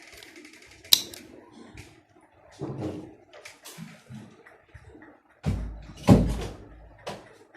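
Household objects being handled and set down: a sharp click about a second in, scattered knocks, and a heavy low thump around six seconds in.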